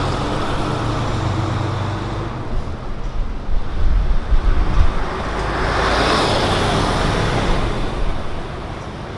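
Street traffic: a vehicle's engine hums low at first, then a passing vehicle's rush of road noise swells and fades away near the end.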